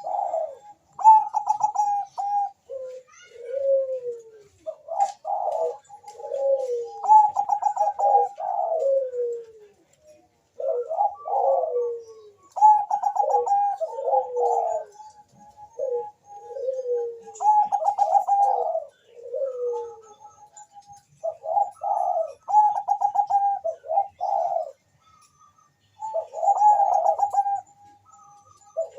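Zebra dove (Thai-bred perkutut bangkok) cooing in quick, repeated trilled phrases with short pauses between them. Some phrases are held at a level pitch and others fall away at the end.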